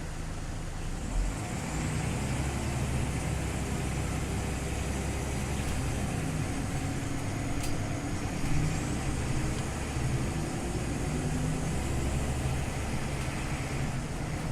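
Scania OmniLink CL94UB city bus under way: a steady engine and drivetrain drone that gets louder about a second in as the bus pulls harder, with a faint high whine and a single click near the middle.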